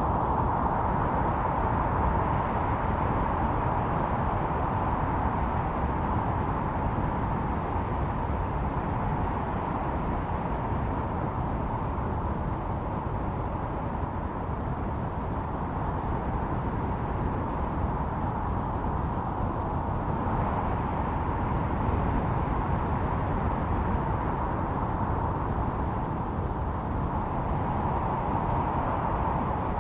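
Snowstorm wind howling steadily: a rushing noise with a hollow, whistling tone, easing a little about halfway through and swelling again later.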